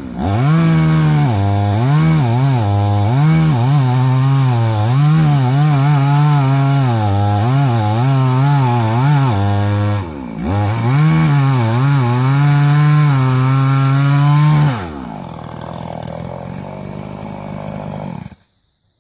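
Brand-new Tengchang 45cc two-stroke chainsaw cutting wood at full throttle, its engine pitch sagging and recovering as the chain bites. The throttle is let off briefly about 10 s in. About 15 s in it drops to idle, and the engine stops abruptly near the end.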